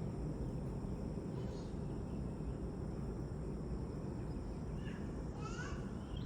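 Evening outdoor ambience: a steady high insect drone over a constant low background hum, with two brief bird chirps, one about a second and a half in and one near the end.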